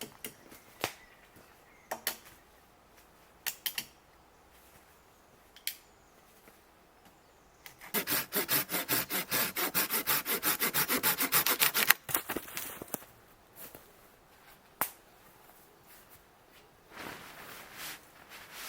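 Hand saw cutting through wood: a run of quick, even rasping strokes, about six a second, lasting about four seconds and then stopping abruptly. Scattered sharp clicks come before and after it.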